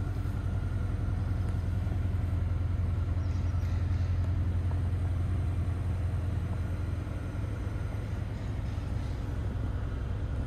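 Škoda Octavia RS's turbocharged 2.0-litre four-cylinder petrol engine idling steadily, a low even rumble heard from inside the cabin.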